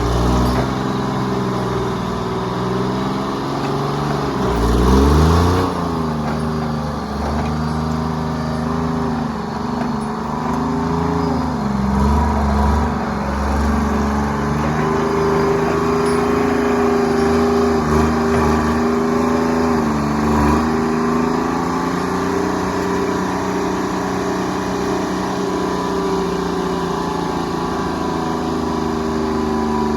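Diesel engine of a Tree Farmer log forwarder running steadily, its pitch dropping sharply and recovering about five seconds in, with smaller rises and falls later as the engine speed changes under working load.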